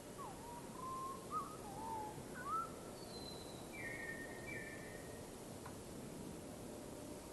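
Bird song: a quick run of short whistled notes that slide up and down, then a few higher, flatter notes, over a steady hiss.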